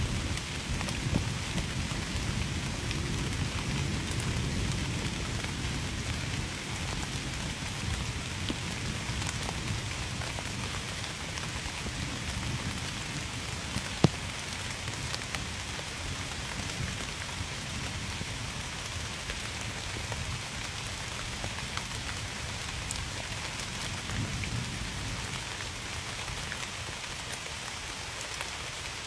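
Steady rain falling on a surface, with a low rumble of distant thunder that fades over the first several seconds and swells briefly again near the end. One sharp drip or tap stands out about halfway through.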